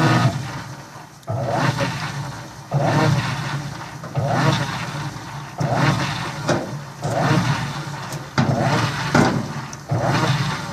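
Electrolux Turbo Limpeza 7.5 washing machine agitating in its wash cycle: the motor drives the agitator in a stroke about every one and a half seconds, each stroke churning the water and fading before the next. The agitator beats only to one side, which the repairer puts down to a faulty control board.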